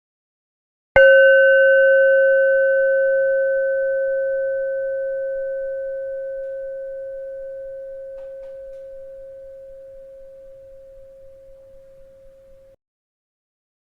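A bell struck once about a second in, its clear tone ringing on and slowly dying away for about twelve seconds before cutting off abruptly. The next strike sounds right at the end.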